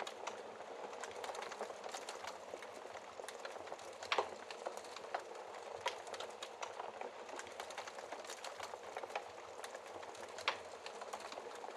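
Wood fire crackling in a fireplace: a steady hiss with frequent sharp pops, and two louder snaps, one about four seconds in and one near the end.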